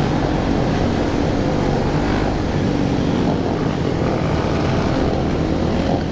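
A large pack of motorcycles running together, their engines blending into a loud, steady, dense din.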